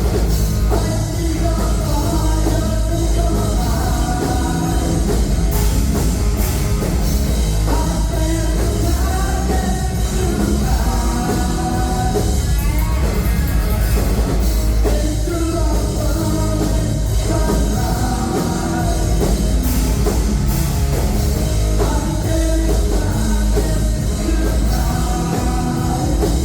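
Live rock band playing loud, with a sung vocal line over bass and drums.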